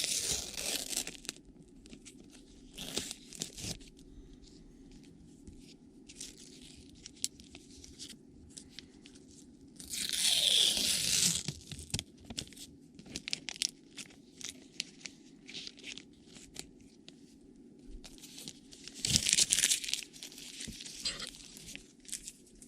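Panini sticker packets being torn open by hand, with three loud tearing rips and light rustling and clicking of the packets and stickers being handled between them.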